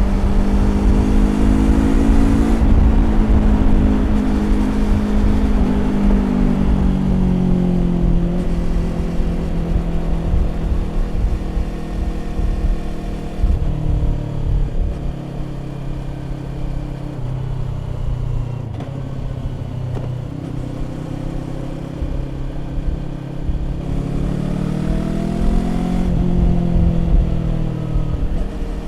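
Yamaha YZF-R25's parallel-twin engine through a Prunus aftermarket exhaust, ridden at speed: the engine note falls over the first few seconds as the throttle eases, holds steady, then rises briefly near the end and drops back.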